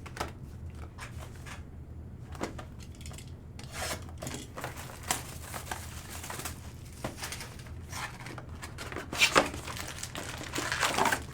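Plastic shrink-wrap being torn and crumpled as a Mosaic football trading-card hobby box is opened and its packs handled, with irregular crinkling and rustling that grows busier and louder near the end.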